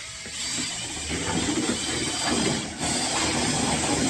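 Liquid pottery glaze being mixed in its bucket, a steady churning hiss that stops near the end, stirring the settled clay and glass back into suspension before dipping.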